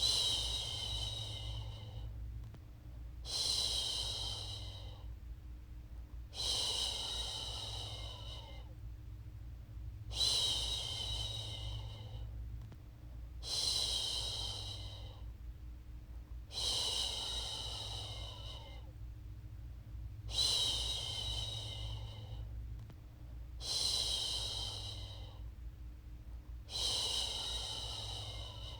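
A woman shushing a baby with a long breathy "shhh", about nine times, roughly every three and a half seconds. Each shush fades away over under two seconds, over a steady low hum.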